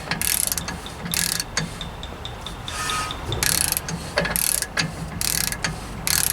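Ratchet wrench clicking through repeated short strokes as it tightens a truck's rear hub bearing nut to snug, toward a 52 foot-pound spec.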